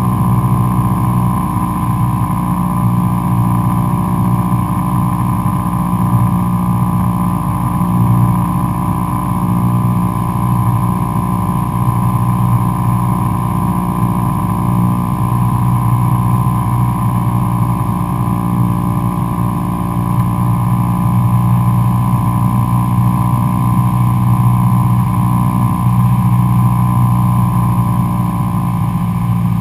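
Cessna 172SP Skyhawk's four-cylinder Lycoming engine and propeller running steadily in flight, a constant drone with no change in power.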